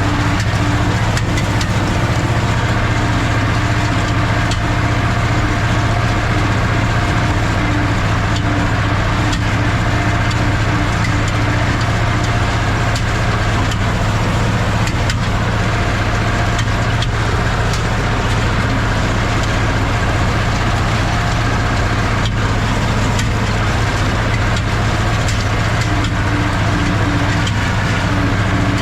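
Ursus C-330 tractor's two-cylinder diesel engine running steadily at constant speed.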